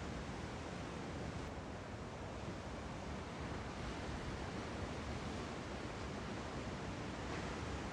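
Steady wash of ocean surf and wind.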